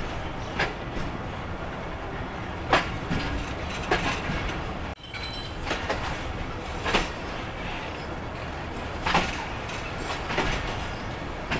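Passenger train coaches rolling slowly out of a station, with a steady rumble of wheels on rails and a sharp clack every second or two as the wheels cross track joints.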